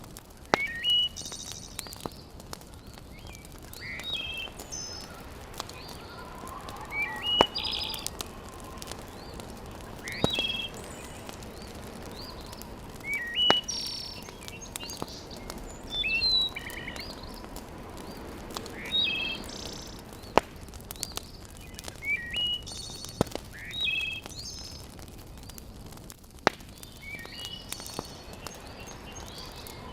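A bird calling with short rising chirps repeated every few seconds, over a steady background with a few sharp pops from a wood fire.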